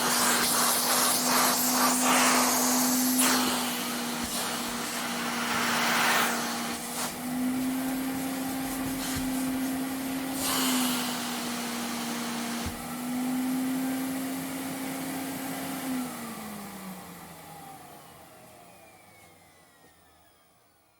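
Vacuum cleaner running with a steady motor whine and rushing air, the suction hiss swelling and easing several times. About 16 seconds in, the motor is switched off and winds down, its pitch falling as the sound fades away.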